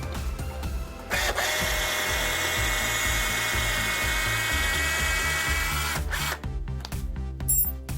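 Keyang DD-1200 12 V cordless drill driver's motor running with a steady whine for about five seconds, then stopping, followed by a few short clicks. Background music plays underneath.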